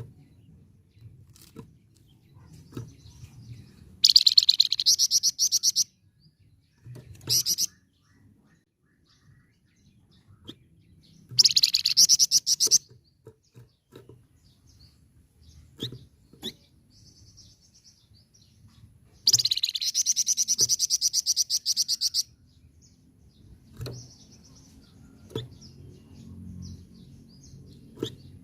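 Songbird known in Indonesia as the flamboyan, singing in bursts of rapid, high chattering notes (the fast 'nyecret' and rolling song of a bird in full voice). There are four bursts, the longest about three seconds, with short gaps of faint background between them.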